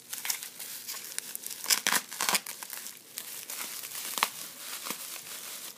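Packaging being handled, crumpled and torn by hand during an unboxing: an irregular run of crinkles and rips, loudest in a cluster about two seconds in.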